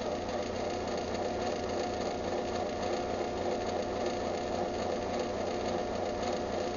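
Craftsman belt-drive garage door opener running its close cycle: a steady motor hum and whir.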